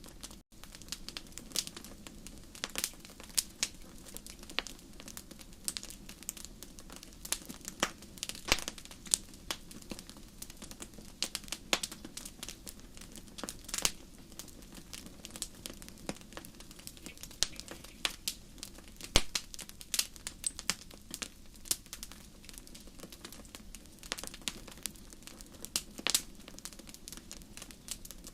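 Wood fire burning in a fireplace, crackling and popping in sharp, irregular snaps over a steady low background, with a momentary dropout about half a second in.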